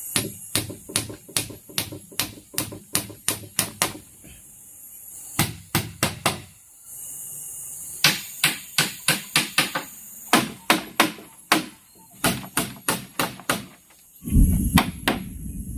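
Runs of sharp, evenly paced blows, about two to three a second, of a hand tool striking bamboo, with short pauses between runs. A loud low rumble joins the last few blows near the end.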